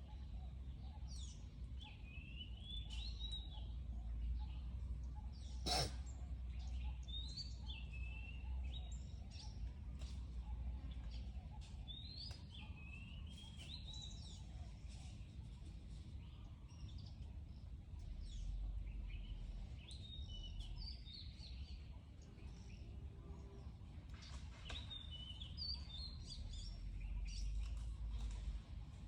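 Birds chirping and singing in short, repeated phrases over a steady low rumble of outdoor background noise, with one sharp click about six seconds in.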